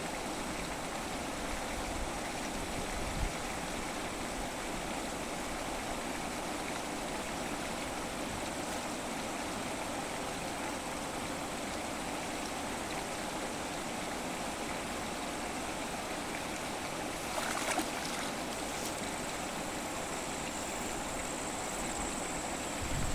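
Steady rush of flowing water, with a brief louder disturbance about three quarters of the way through.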